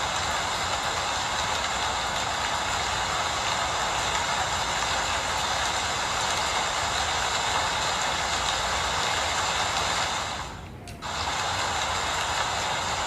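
Steady rain falling, an even hiss. It drops away for about a second a little past ten seconds in, then comes back suddenly.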